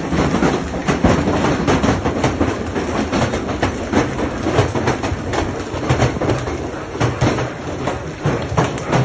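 Large hailstones striking in a dense, irregular clatter of hard impacts over a low rumble, with no let-up.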